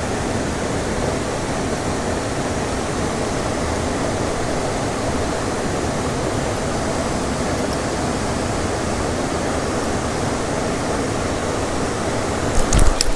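Steady rush of a small waterfall pouring into a stream pool. A few sharp knocks come near the end.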